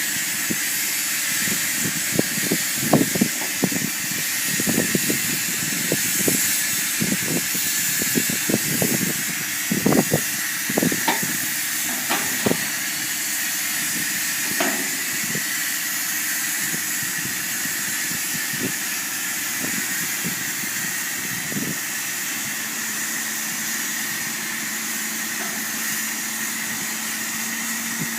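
Silage machinery running steadily: a constant loud hiss, with scattered knocks through the first half and a low steady hum joining about two-thirds of the way through.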